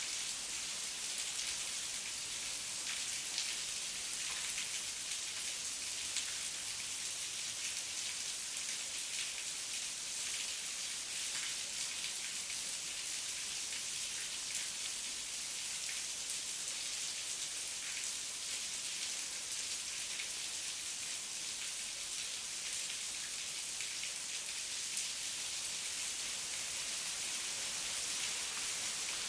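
Steady heavy rain hissing down, with many scattered drops ticking through it.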